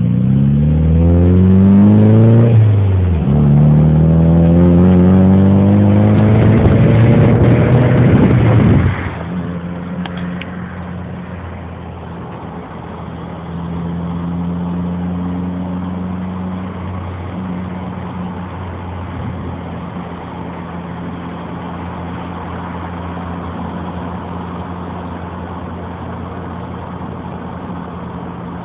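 Car engine pulling hard at full throttle, heard from inside a car's cabin. Its pitch climbs, drops at one gear change about two and a half seconds in, and climbs again until the throttle is lifted about nine seconds in. After that the engine runs at a steady cruise, much quieter.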